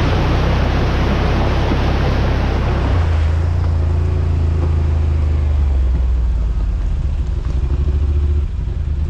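Side-by-side UTV engine running steadily under way, with a loud rushing noise over it for the first three seconds that then dies away, and a slight change in the engine note near the end.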